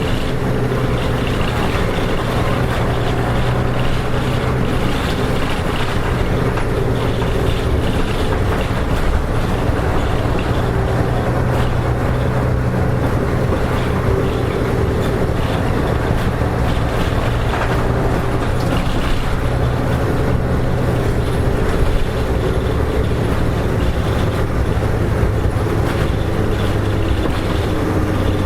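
Diesel engine and drivetrain of a KK-RM252GSN (Nissan Diesel Space Runner RM) route bus running at a steady pitch as the bus travels at an easy pace, with road noise.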